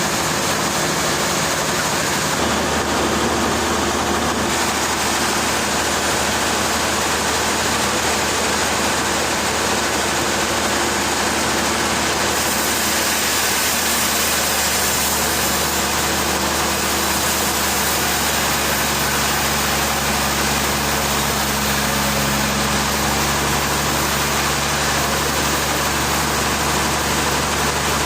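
An engine running steadily: a broad hiss over a low hum. The hum shifts in pitch about two seconds in and again later on.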